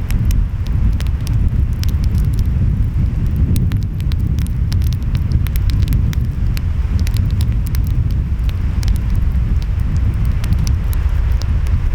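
Wood fire crackling, with many sharp pops and snaps scattered throughout, over a steady low rumble of wind and surf.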